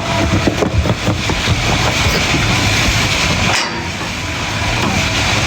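Sheep-shearing clippers running with a dense, steady mechanical clatter, dipping briefly about three and a half seconds in.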